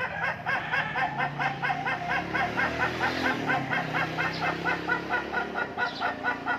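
A bird calling in one long unbroken run of short, quick repeated notes, about five a second, steady in pace and pitch.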